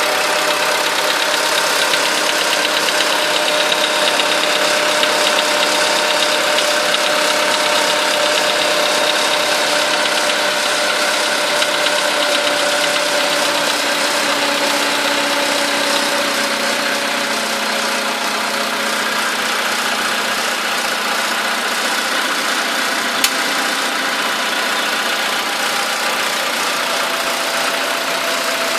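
VW Polo sedan engine idling steadily with a knock that sounds like valve tapping, a knock that appeared right after the car's first scheduled service at 13,000 km. The idle eases slightly lower about two-thirds of the way through, and there is one sharp click about three-quarters of the way through.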